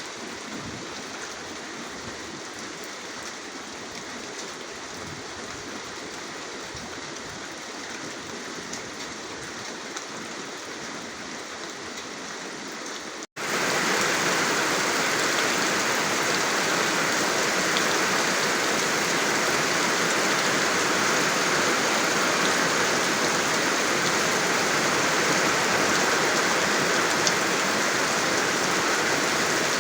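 Steady rain, an even hiss of falling water. About 13 seconds in it cuts out for an instant and comes back louder and brighter, heavier rain.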